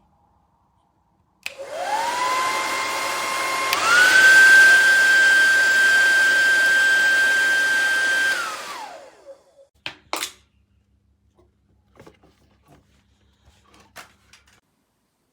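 Revlon RVDR5823 2000W hair dryer switched on: its fan motor whines up in pitch, steps up to a higher speed about four seconds in, runs steadily with a rush of air, then winds down and stops. A few light clicks follow.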